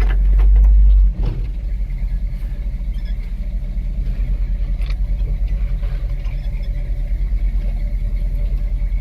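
Old pickup truck's engine running cold, just started after sitting, with a low, evenly pulsing rumble. About a second in, a heavier low rumble drops away with a knock, and the lighter pulsing engine note carries on.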